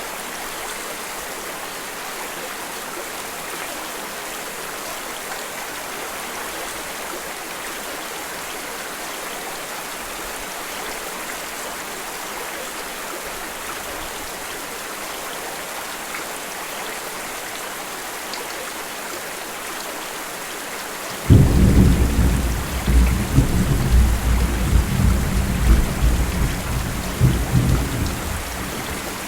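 Steady rain, joined about two-thirds of the way in by a sudden, loud low roll of thunder that rumbles in waves for several seconds and dies away near the end.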